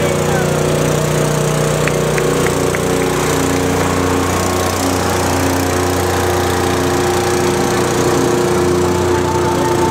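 A boat's motor running steadily, with music playing over it.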